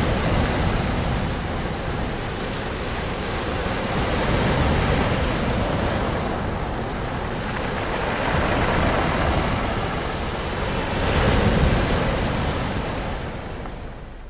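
Ocean waves breaking and washing on a shore, the surf swelling and ebbing in slow surges every few seconds, then fading away near the end.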